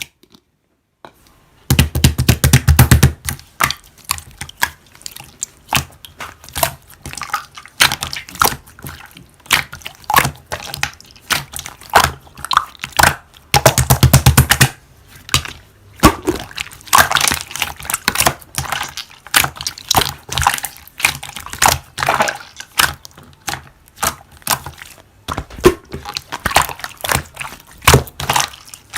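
Toy slime being squished and pressed by hand, giving wet crackling and popping clicks in quick irregular runs, with two longer stretches of dense crackling, one about two seconds in and one about halfway through.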